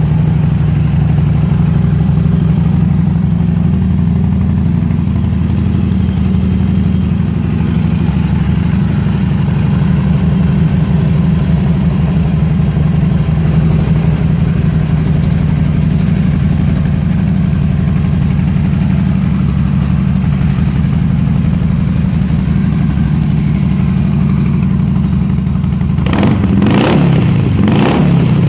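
Harley-Davidson Sportster Iron 883's air-cooled 883cc Evolution V-twin engine idling steadily, then revved twice in quick succession near the end.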